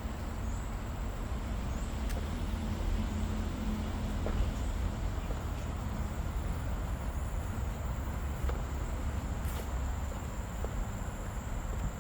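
Outdoor ambience: a steady low rumble under a thin, high insect drone, with short rising chirps about once a second and a few faint ticks.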